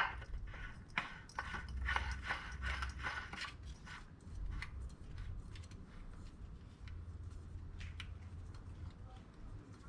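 New oil filter being screwed on by hand onto its threaded mount: a sharp click at the start, then a run of faint scrapes and ticks that thin out after about four seconds.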